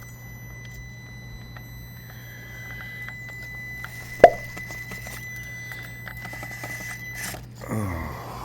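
A steady high-pitched whine over a low hum, broken by one sharp knock about four seconds in, then a man's groan near the end.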